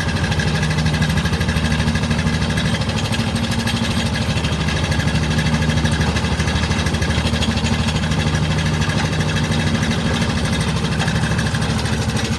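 An engine running steadily at a constant speed, an even hum that does not change in pitch.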